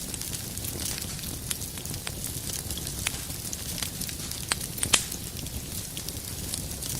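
Wood fire burning in a fireplace: a steady low rumble and hiss with scattered crackles, and two sharp pops about four and a half and five seconds in.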